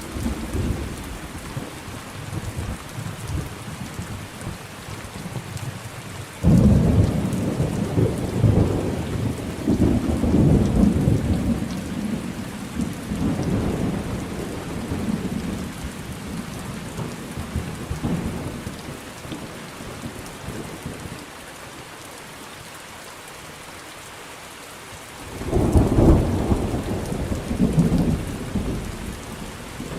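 Thunderstorm with steady rain. A roll of thunder breaks in suddenly about six seconds in and rumbles on for over ten seconds before dying away to rain alone. Another roll starts a few seconds before the end.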